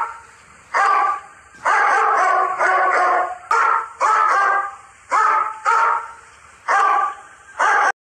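A dog barking repeatedly, roughly a dozen loud barks at about one or two a second, cutting off abruptly near the end.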